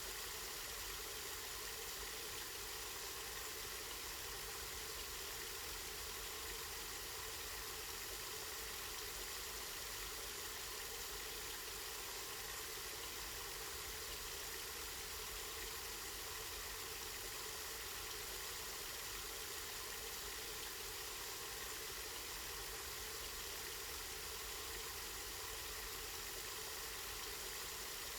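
Spring water running and splashing in a steady, unbroken stream.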